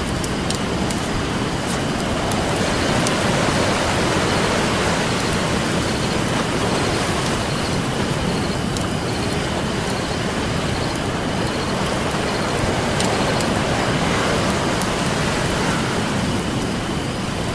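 Ocean surf washing in as a steady rush that swells gently a few seconds in, with scattered sharp pops and crackles from a burning wood campfire.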